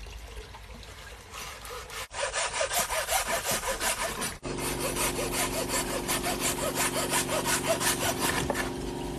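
Hacksaw cutting through a dry block of instant noodles in quick back-and-forth strokes, about three or four a second, starting about two seconds in. A steady low hum runs under the second half.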